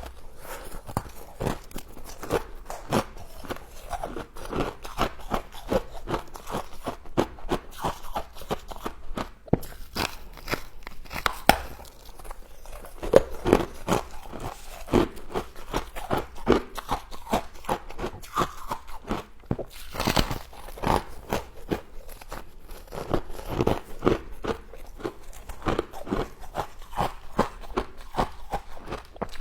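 A person biting into and chewing crunchy frost close to the microphone, a dense, irregular run of crackling crunches.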